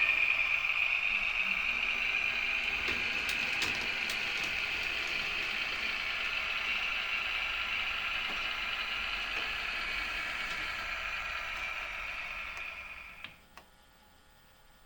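Märklin H0 model train running along the track, a steady high-pitched hum with a few sharp clicks, fading away about 13 seconds in, followed by a single click and then near silence.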